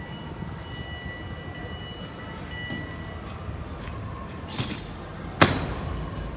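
Steady background noise with a faint high held tone, then a small click and, about five seconds in, one loud sharp knock that rings on briefly.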